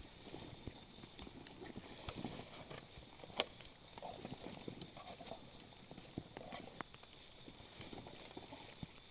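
Quiet rainforest ambience: a steady high-pitched insect drone, with irregular soft knocks and rustles and one sharp click about three and a half seconds in.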